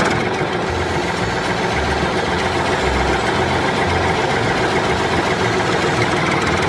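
A machine running steadily: a loud, even mechanical noise with no breaks or changes in pitch.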